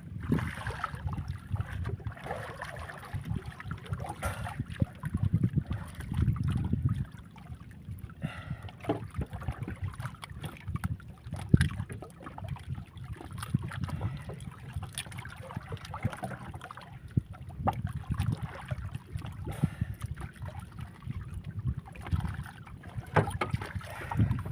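Wind buffeting the microphone over moving, sloshing water, with scattered knocks and clicks throughout.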